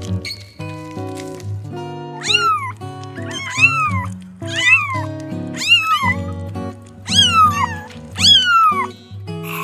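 An animal calling six times, about once a second, each call a high cry that rises and then falls in pitch, over steady background music.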